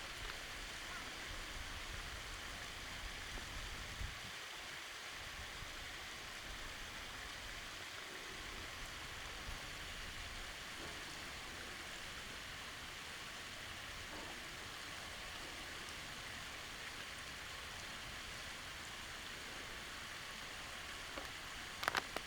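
Steady rush of water pouring over a small sabo dam weir, an even hiss without pauses. A low rumble runs under it for the first four seconds, and a few sharp clicks come near the end.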